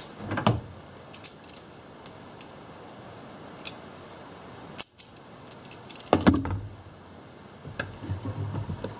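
Small metal tools and parts being handled: scattered clicks, clinks and knocks, with a louder knock and rattle about six seconds in and a run of small knocks near the end.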